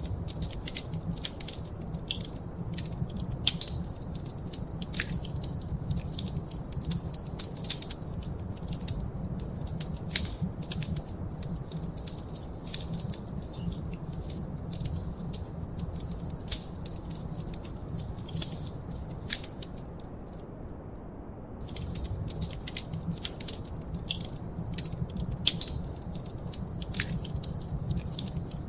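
Wood fire crackling in a fireplace: a dense run of quick pops and snaps over a low rumble of flame. The crackling stops briefly about two-thirds of the way through, then picks up again.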